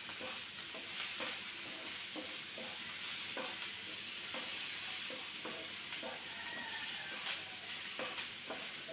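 Chopped onions, green chillies, garlic and ginger sizzling as they fry in a pan, with a wooden spatula stirring and scraping them in repeated short, irregular strokes.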